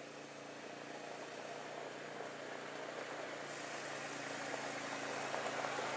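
An engine idling steadily, with a hiss behind it that grows gradually louder.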